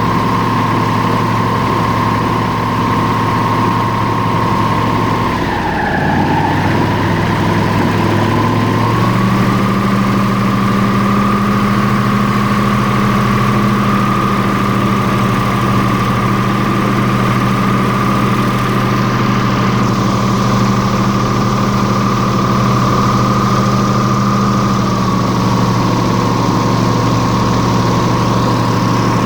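Airboat engine and propeller running steadily. The pitch dips for a moment about five seconds in, then rises back a little higher and holds, easing slightly near the end.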